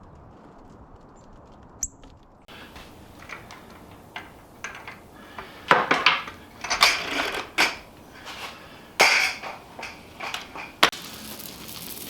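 Irregular clattering, knocking and rustling, as of objects being handled, beginning about two and a half seconds in and loudest in a few sharp knocks about halfway through and again later on.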